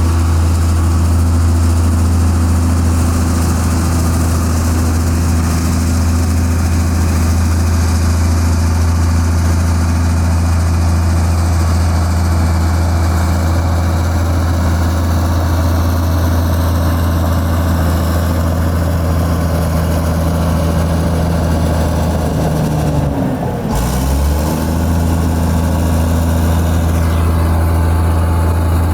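Heavy construction-machine diesel engine running steadily with a deep, even drone. Near the end its pitch briefly sags and then comes back up, as if it takes a load.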